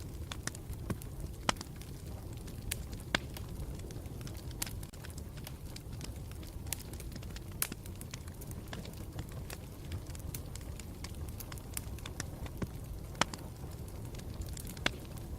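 Campfire burning with a steady low rumble and irregular sharp crackles and pops of burning wood, a few pops louder than the rest.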